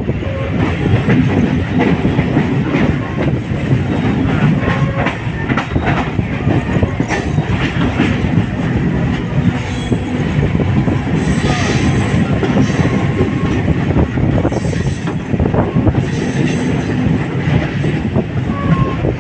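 Passenger train running on the rails, heard from a carriage window: a steady rumble and rattle of wheels and carriage, with high-pitched wheel squeal coming in in several separate stretches from about halfway through.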